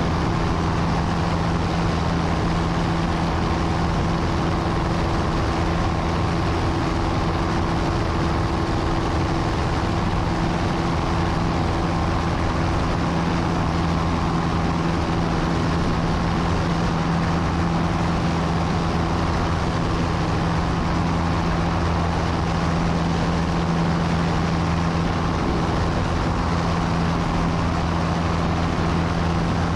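Light piston aircraft's engine and propeller droning steadily in level flight, heard inside the cabin, with a constant low hum.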